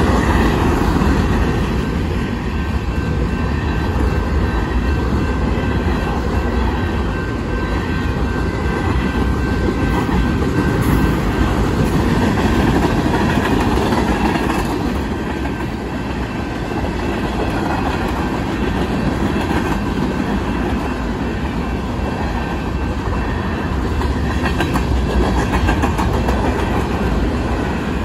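Union Pacific mixed freight train's cars, covered hoppers and tank cars, rolling steadily past: a continuous loud rumble of steel wheels on the rails.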